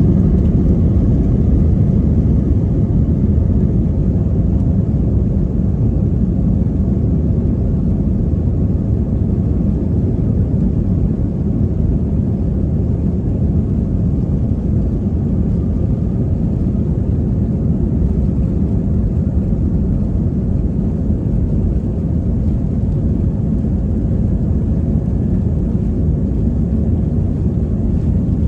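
Airliner jet engines at takeoff power: a loud, steady, deep rumble that eases a little over the first several seconds.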